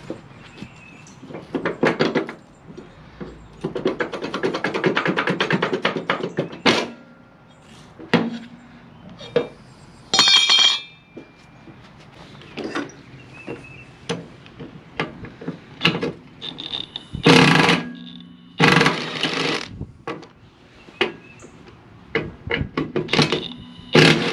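Hand tools working on the metal spindle hardware of a Husqvarna riding mower deck: a few seconds of rapid, even clicking, a ringing metallic clink, then several loud knocks and clunks.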